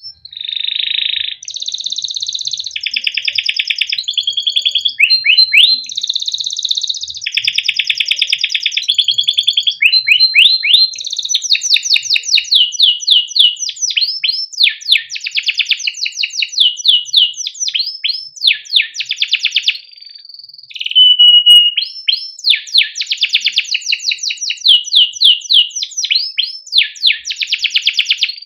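Male canary singing a long, unbroken song: buzzy rolled phrases at first, then fast runs of repeated sweeping 'cuit cuit' chirps, with a short steady whistled note about two-thirds of the way through.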